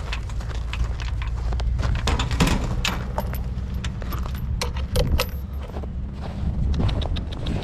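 Repeated metallic clinking and rattling, with the loudest clanks about two and a half and five seconds in, over a steady low rumble.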